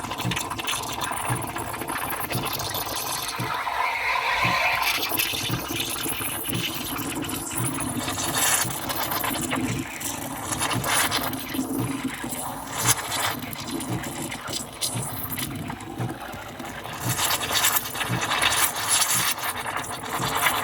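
Espresso machine's steam wand hissing and sputtering as it froths, with a steady run of low, evenly spaced knocks from the machine underneath.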